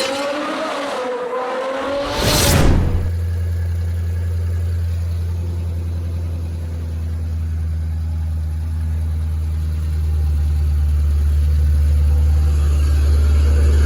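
A short intro sound with a wavering tone ends in a sudden whoosh about two and a half seconds in. Then a Ford 5.2 Voodoo flat-plane-crank V8 idles steadily, getting slightly louder near the end.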